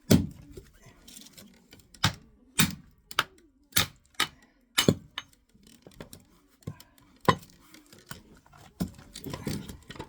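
Oak firewood being chopped and split into kindling: about a dozen sharp, irregular blade strikes on the wood, some in quick pairs, with a quicker flurry of knocks near the end.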